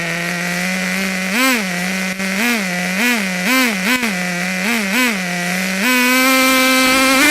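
Nitro RC truck's small glow-fuel engine, heard up close from a camera mounted on the truck. It runs at a steady low speed and is blipped up briefly about seven times in quick succession, then settles at a higher steady speed near the end.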